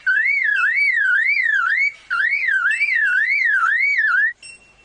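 Superb lyrebird imitating a car alarm: a loud whistled wail sweeping up and down about two and a half times a second. It comes in two runs with a brief break about two seconds in, and stops shortly before the end.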